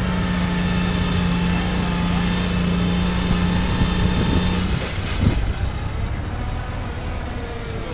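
Cub Cadet pulling garden tractor's engine running hard under load at a steady pitch, then cutting back about four and a half seconds in to a quieter, lower running as the pull ends.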